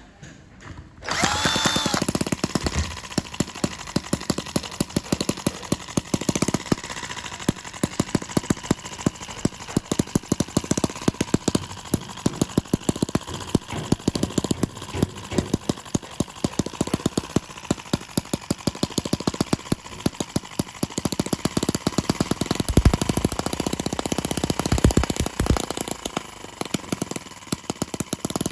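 Small model engine running, with a rapid, even stream of firing beats that starts suddenly about a second in.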